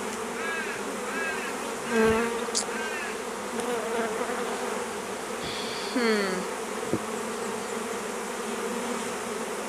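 Honeybees from a freshly hived swarm buzzing steadily around the open hive box. Single bees pass close to the microphone, one about six seconds in with its pitch dropping. There is a brief knock about two seconds in.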